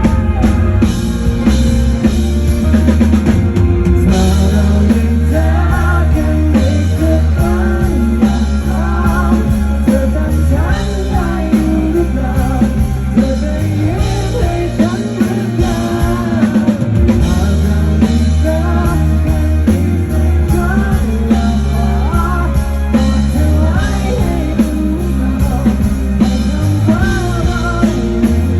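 Live rock band playing an instrumental section of a pop-rock song: drum kit, bass and guitars, with a wavering melody line over a strong, steady low end.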